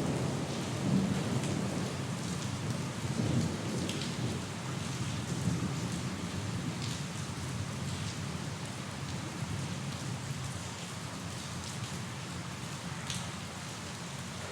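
Steady rain falling, with a low rumble of thunder that fades away over the first several seconds.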